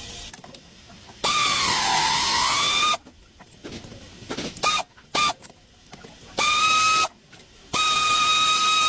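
Vehicle brakes squealing in a series of high, whistling squeals over a hiss: a long one about a second in that dips in pitch and climbs back, two short chirps, then two steady squeals near the end.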